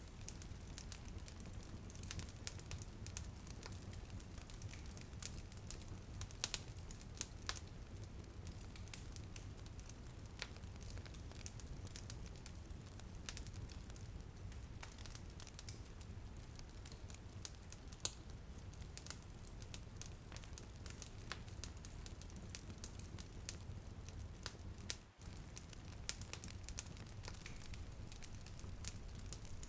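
Wood fire crackling, with frequent sharp irregular pops over a steady low rumble, and light rain pattering faintly underneath. The sound drops out briefly about 25 seconds in.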